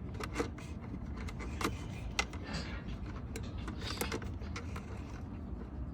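Scattered light clicks and taps of handling, about five in all, over a steady low hum.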